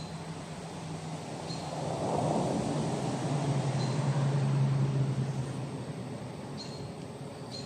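A motor vehicle passing by, its low hum and road noise swelling over a few seconds and then fading away.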